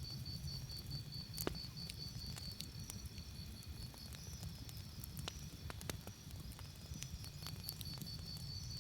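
Campfire crackling, with scattered sharp pops and snaps, the sharpest about a second and a half in, over a low rumble. Crickets chirp throughout in a steady, high, pulsing trill.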